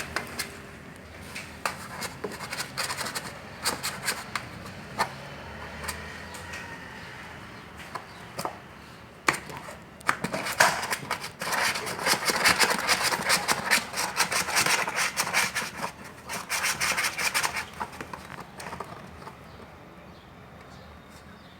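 Siamese kitten scratching with its claws: rasping scratch strokes, scattered at first, then a dense run of rapid scratching about halfway through, which thins out near the end.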